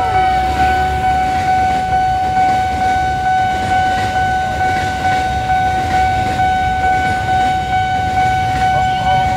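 KRL JR205 electric commuter train running through a level crossing, with a steady low rumble, under a steady, continuous warning tone that cuts off just as the train clears.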